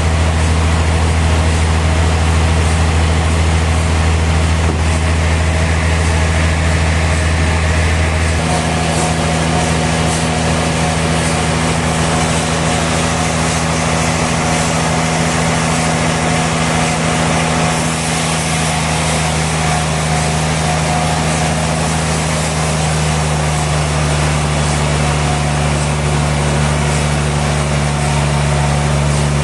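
Sawmill machinery running with a steady, loud hum and a high hiss. About eight seconds in, the hum shifts abruptly to a higher pitch.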